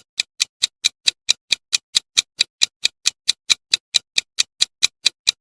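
Countdown-timer ticking sound effect, like a clock: sharp, even ticks at about four and a half a second.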